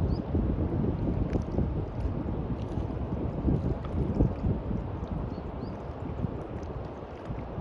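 Wind buffeting the microphone over the wash of surf on a beach: a low, uneven rumble that swells and eases.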